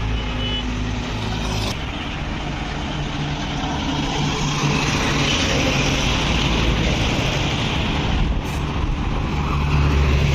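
Truck engine running, with road and traffic noise. The sound changes abruptly about two seconds in and again near eight and a half seconds, and a deeper, louder engine note comes in near the end.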